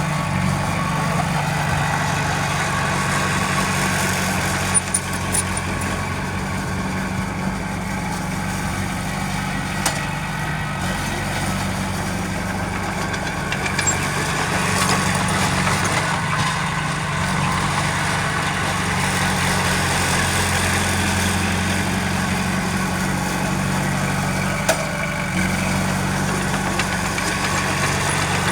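Heavy earthmoving machine's engine running at a steady, low idle-like speed, with a few faint clicks or knocks.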